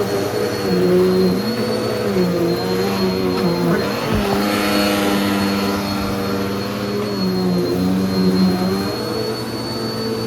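Hoover Pet vacuum cleaner running on a rug, a steady motor hum with a high whine, its pitch dipping and rising every second or two. About four seconds in there is a low thump and the pitch briefly sweeps.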